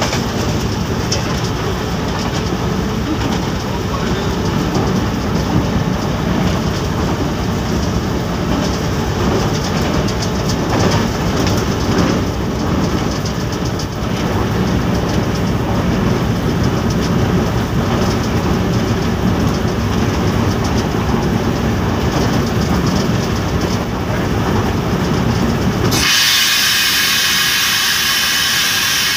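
Diesel locomotive running along the track, heard from inside its cab: a steady heavy rumble with the clatter of wheels over rail joints. About three seconds before the end, the rumble cuts out abruptly and a loud, steady, high-pitched sound takes over.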